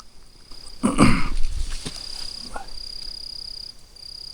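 Jungle insects trilling at a steady high pitch in repeated stretches of about half a second to a second each. About a second in comes a short, loud call from a voice or animal, falling in pitch.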